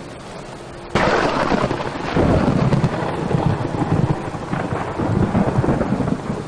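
Heavy rain falling, with a low rumbling underneath; it starts suddenly about a second in.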